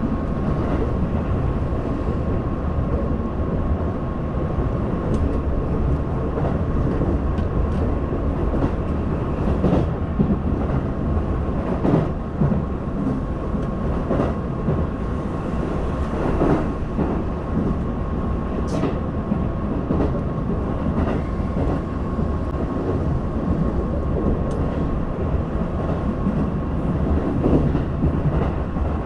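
Keihan limited express train heard from inside the carriage while running: a steady rumble of wheels on the rails with a constant high tone over it. Occasional knocks are scattered through it, wheels passing over rail joints.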